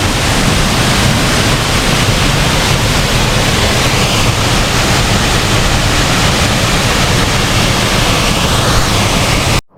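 Loud, steady rushing of a waterfall close by, which cuts off suddenly near the end.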